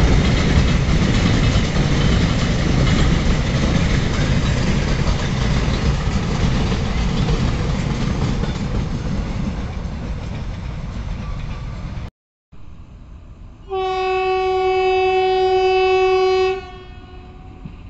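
Freight train's container wagons rumbling and clattering over the rails as they pass, slowly fading over about twelve seconds. After a short break, a locomotive horn blows one steady note for about three seconds.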